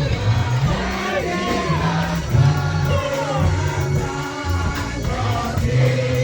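Gospel music: a group of voices singing together over a band, with a bass line moving in held notes.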